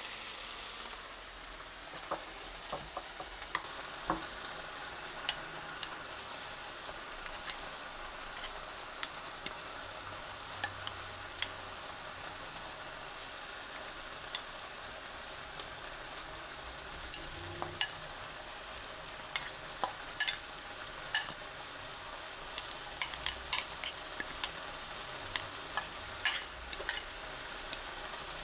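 Food sizzling in a frying pan, a steady hiss, with frequent sharp clicks and taps of a utensil against the pan as it is stirred, coming thicker in the second half.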